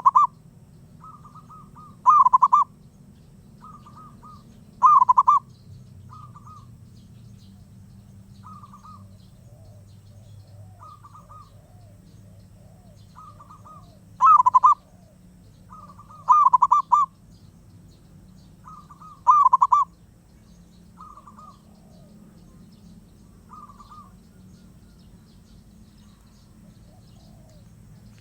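Zebra doves (perkutut) cooing: short phrases of quick, rattling coo notes repeated every second or two, some loud and close and others fainter between them. The loud phrases come in two groups of three, near the start and again about halfway through.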